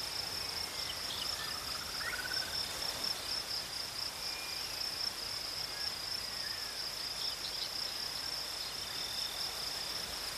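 A steady, high-pitched insect trill, with faint scattered bird chirps and short thin whistles sliding in pitch.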